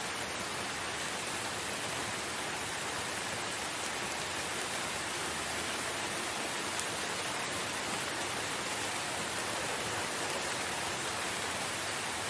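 Steady rain falling, an even hiss with no breaks, with one faint drip-like tick about seven seconds in.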